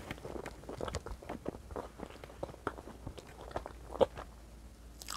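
Close-miked chewing and wet mouth sounds of someone eating soft white beans and meat in red sauce: a steady run of small clicks and smacks, with one louder click about four seconds in.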